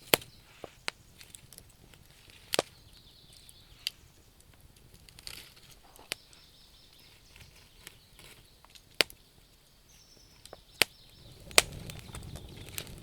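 Burning firewood in a campfire crackling, with sharp single pops at irregular intervals a second or more apart. A low rumble comes up near the end.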